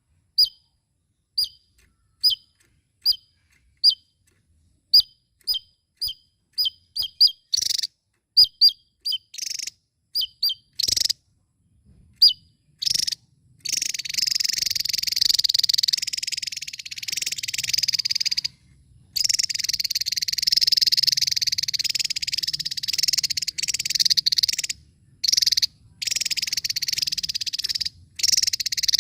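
Javan tesia calling: short, sharp, high chirps repeated about once a second, coming quicker after several seconds. About halfway in they give way to a long, rapid, continuous trilling song broken by a few brief pauses.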